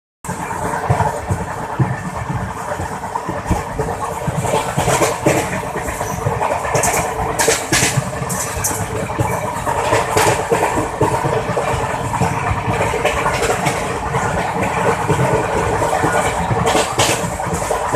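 A vehicle in motion with its engine running steadily and constant travel noise, broken by scattered sharp clicks and knocks.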